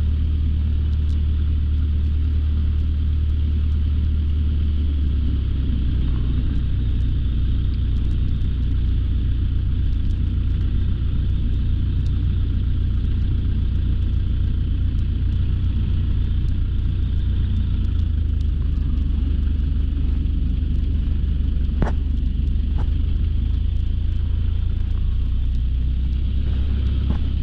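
Single piston engine of a light aircraft running at low taxi power while still warming up, a steady low drone with small shifts in pitch about five seconds in and again near the middle. A faint click or two near the end.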